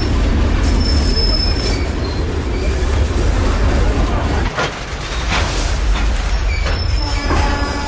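Train running on the rails: a loud, steady rumble with thin, high wheel squeal over it and a few sharp clacks of the wheels and cars about halfway through.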